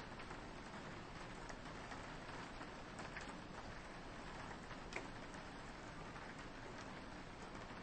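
Gentle rain on a window: a steady soft hiss with scattered drops ticking, and one sharper drip about five seconds in.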